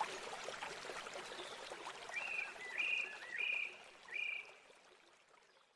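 River water running, with a bird giving four short, evenly spaced calls in quick succession in the middle. The whole sound then fades out near the end.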